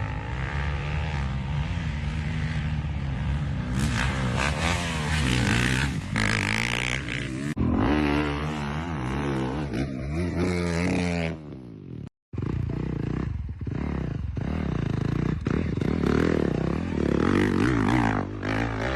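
Dirt bike engine revving hard under load, its pitch rising and falling as the throttle is worked on a steep hill climb, with the sound cutting out briefly about twelve seconds in.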